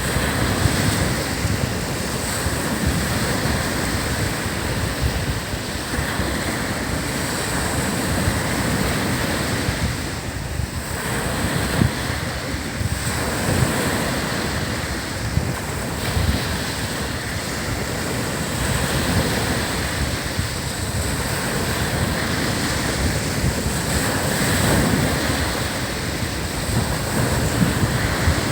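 Ocean waves breaking and washing up on a sandy beach in a steady, swelling surf, with wind buffeting the microphone.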